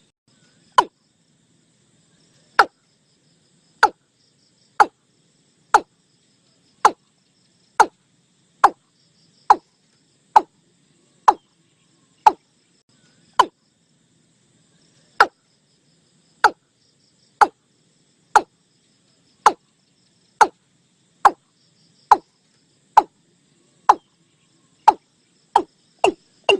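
Calls of the bird known in Thai as nok ee-klung: a series of short notes, each dropping steeply in pitch, repeated about once a second, then quickening into a fast run at the very end. It is a clean recording of the call of the kind played as a decoy to lure the bird.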